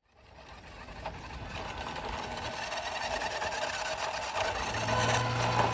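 Steady rushing noise fading in and slowly growing louder, with a low steady hum joining about five seconds in.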